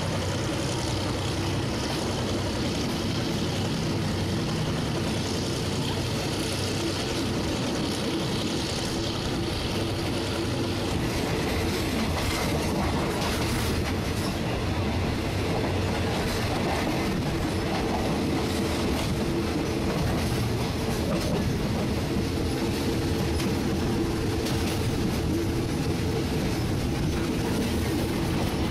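Passenger train running along the track, heard from a carriage window: a steady rush of wheel and rail noise with a low, even hum underneath.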